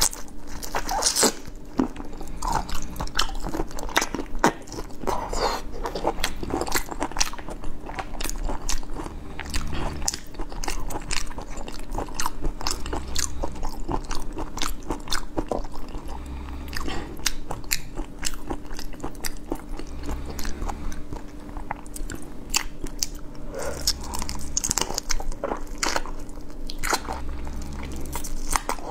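Close-miked biting and chewing of whole raw shrimp, the shells crunching between the teeth in many quick, irregular crunches with wet chewing in between.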